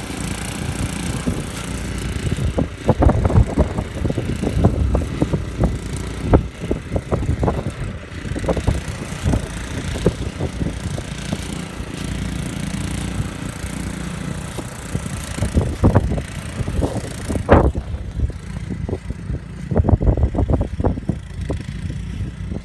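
Small-engine snowblower running steadily, with several bunches of sharp knocks and scrapes over it.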